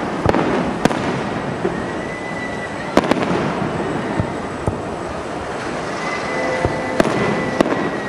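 Aerial firework shells bursting: sharp bangs every second or so over a continuous rumble and crackle from the display.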